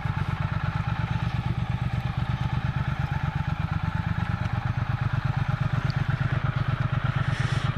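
Motorcycle engine idling steadily, with an even, rapid low pulse.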